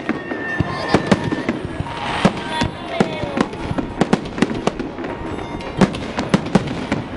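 Japanese star mine fireworks barrage: shells bursting in rapid succession, sharp bangs every fraction of a second over continuous crackling, with a faint whistle now and then.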